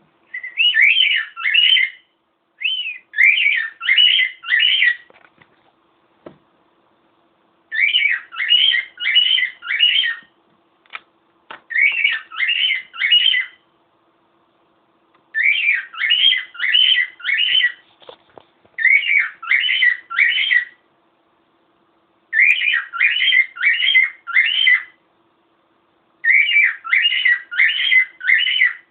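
Cockatiel singing: a whistled phrase of about four quick notes, repeated eight times with short pauses between.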